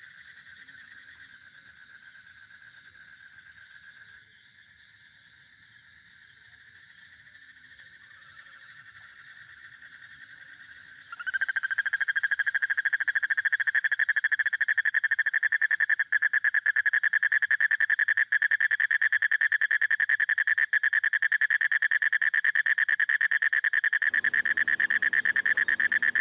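A frog calling in one long, continuous rapid trill. It is faint at first, then becomes much louder and steady from about eleven seconds in.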